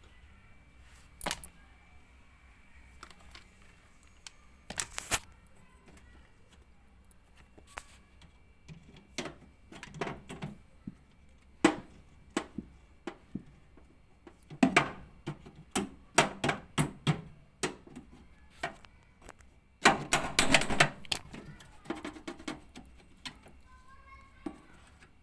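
Irregular knocks, clicks and rattles of parts and tools being handled while working on a washing machine's suspension. There is a dense burst of clatter about twenty seconds in.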